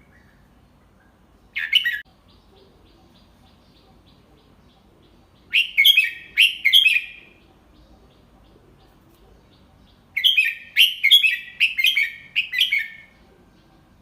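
Red-whiskered bulbul singing: a short call about one and a half seconds in, then two phrases of quick whistled notes, one about five and a half seconds in and a longer one from about ten seconds in.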